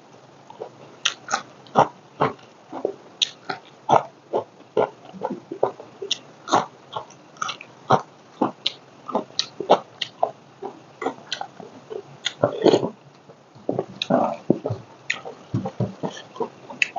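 Close-miked wet chewing and lip smacking of a person eating rice by hand, irregular smacks about two or three times a second.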